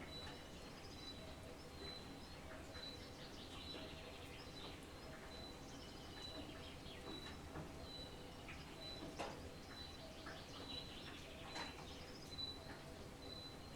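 Wild birds singing in the open, one repeating a short high note about twice a second, with softer low cooing notes and scattered chirps, over a faint steady background hiss. A few sharp ticks stand out.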